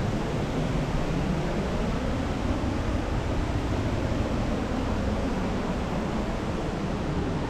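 Steady rushing noise with a deep rumble underneath, even throughout with no distinct events.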